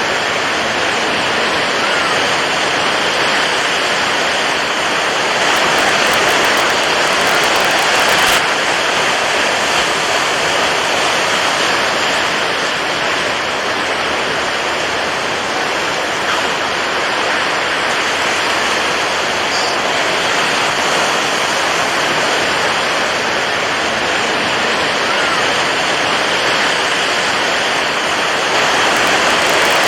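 Water waves washing in a steady, continuous rush, with only slight swells in loudness.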